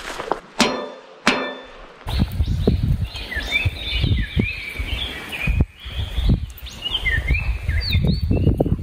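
Wild birds singing repeated chirping, sliding phrases over a low, gusting rumble of wind on the microphone. The birdsong begins about two seconds in, after two short ringing pings.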